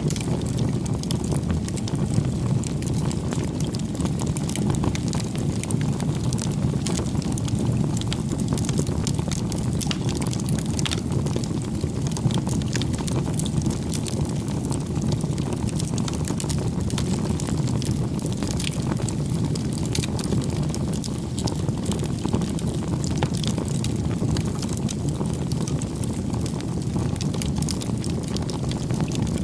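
Bonfire burning: a steady low rush of flame with scattered small pops and crackles.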